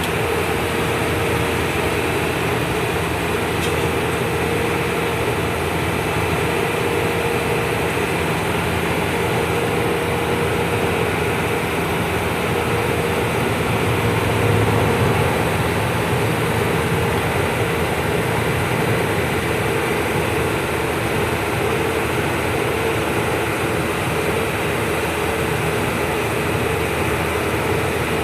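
Truck running steadily down the road, its engine and road noise a constant drone with a steady hum, swelling briefly about halfway through.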